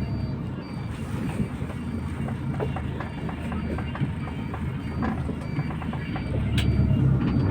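MAZ 241 bus's diesel engine heard from inside the cabin, running with scattered rattles and knocks from the body and a faint regular high tick. The engine grows louder near the end as the bus pulls away.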